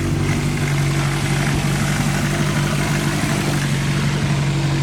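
A 32-year-old car engine idling steadily just after a push start. The battery is too weak to crank it.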